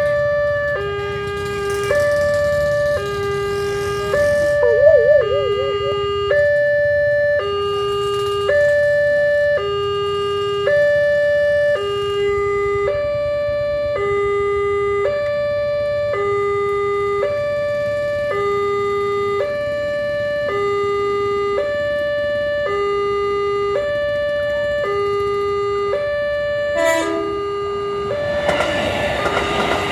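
Railway level-crossing alarm sounding a repeating two-tone signal, a higher tone and a lower tone alternating about once a second, warning of an approaching train. Near the end an electric commuter train arrives at the crossing and its running noise rises.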